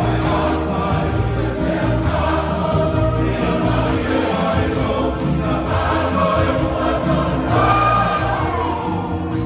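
Samoan church choir singing with band accompaniment: a steady bass line under the massed voices, keeping an even beat.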